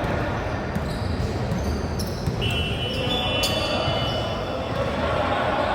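Basketball bouncing on a gym floor during a game, over a steady din of players' and spectators' voices echoing in the hall, with a brief high squeak about two and a half seconds in.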